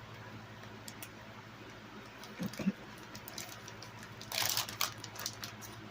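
Kitchen handling sounds as a pack of sliced cheese is opened and slices are taken out: small clicks, a short knock, and a brief plastic crinkle a little after four seconds in, over a low steady hum.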